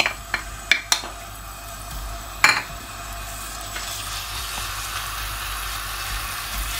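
Ginger-garlic paste sizzling in hot oil in a stainless steel frying pan as it is stirred with a wooden spoon, the sizzle growing steadily. A few light knocks against the pan in the first second and a sharper one about two and a half seconds in.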